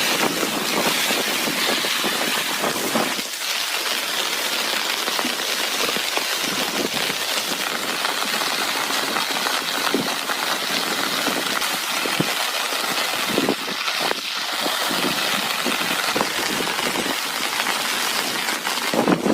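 Heavy rain falling steadily, with scattered sharp drop impacts close by.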